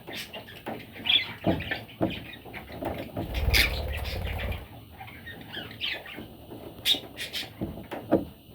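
Pet budgerigars chirping and chattering in short, scratchy calls, mixed with sharp clicks and rustles. A low rumble runs from about three to four and a half seconds in.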